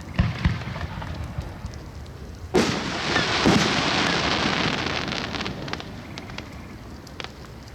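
Aerial fireworks going off: a few dull booms near the start, then about two and a half seconds in a loud burst followed by a long crackling hiss that slowly fades.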